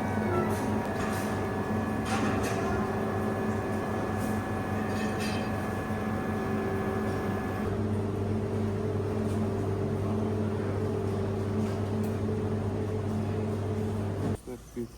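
Steady engine drone with a constant pitch, changing slightly about halfway through and cutting off abruptly near the end.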